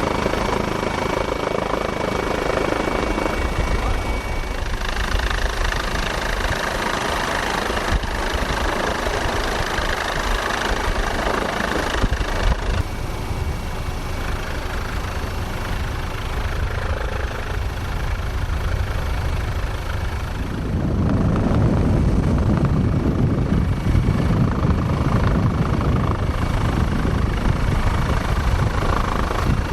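Steady helicopter rotor and engine noise. It grows louder and deeper about two-thirds of the way through.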